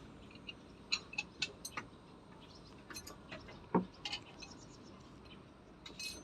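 Scattered light clicks and ticks, irregular, with one heavier knock a little before the four-second mark, like small hard objects being handled.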